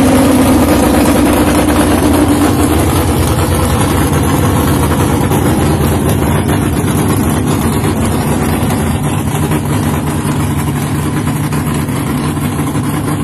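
Drag race car engine idling with a steady lumpy note, a little louder at first and slowly easing down.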